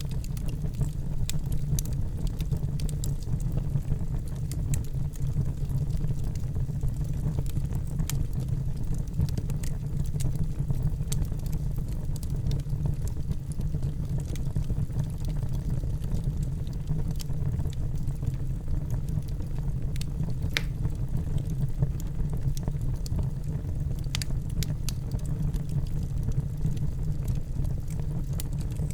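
Wood fire burning in a fireplace: a steady low roar of the flames with irregular sharp crackles and pops, a few louder pops after the middle.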